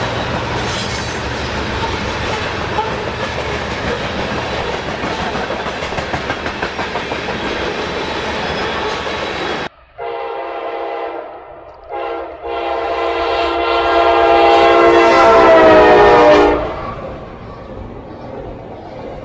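A freight train rolling by with steady rail noise and wheel clatter. After an abrupt cut, a locomotive air horn sounds, broken by short gaps, then swells loud and drops slightly in pitch before cutting off.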